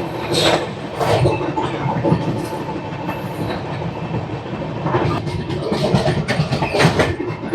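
Express train coach running along the track: a steady rumble with wheels clacking over rail joints several times.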